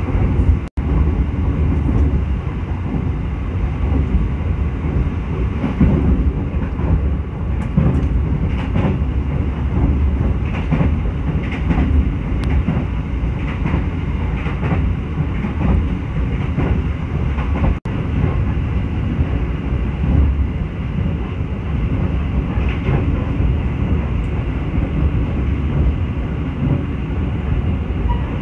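Anjasmoro passenger train running at speed, heard from inside the carriage by the window: a steady low rumble of the wheels on the rails with scattered clacks. The sound cuts out for an instant twice, about a second in and about two-thirds of the way through.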